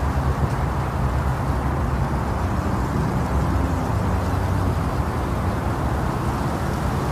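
Steady, deep rumbling noise made to simulate the sound a baby hears in the womb, used to lull babies to sleep. It holds level without change, heavy in the low end with little hiss on top.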